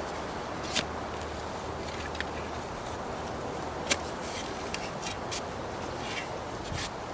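Steady wind noise on the microphone, with a few scattered sharp clicks and scrapes; the loudest click comes about four seconds in.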